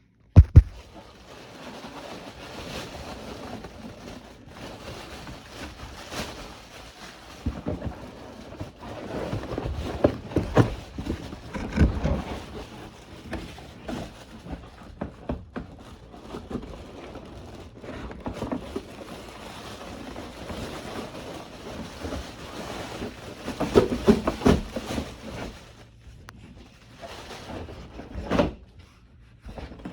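Packaging being handled during unboxing: irregular rustling and crinkling, with scattered sharp crackles and knocks.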